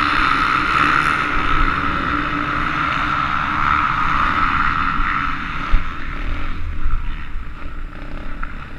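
SSR110 pit bike's small four-stroke engine running steadily at high revs, with wind rumble on the microphone; the engine note fades about five and a half seconds in.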